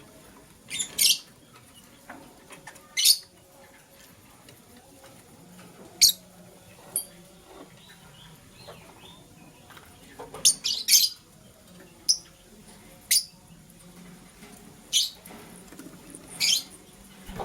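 Lovebirds giving short, sharp, high-pitched chirps, about a dozen spaced irregularly, with a quick cluster of them about ten seconds in.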